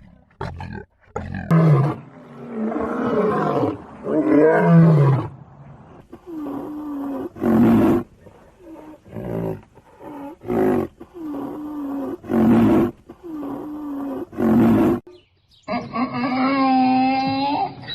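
Lion roaring: several heavy roars, then a run of shorter, evenly spaced calls. About two seconds before the end a different animal call starts, long and wavering with a clear pitch.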